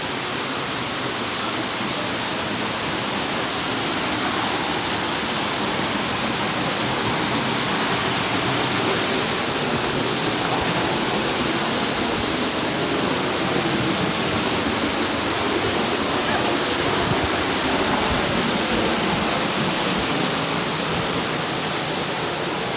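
Waterfall close up: falling water rushing in a steady, loud hiss.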